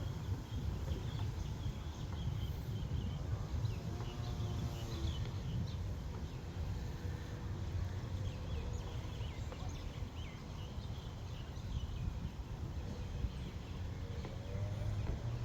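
Wind rumbling and buffeting on the microphone, with faint bird chirps and a couple of brief faint pitched calls or voices in the distance.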